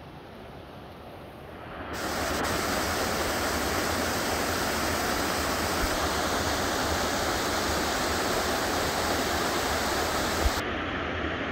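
Rushing water: a steady, loud hiss that swells in over the first two seconds and holds, its higher part cutting off abruptly near the end.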